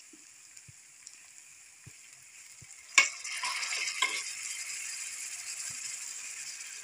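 Oil and onion-tomato masala sizzling softly in a pan; about three seconds in, boiled kidney beans are tipped in with a sharp clatter, and the sizzling then grows louder.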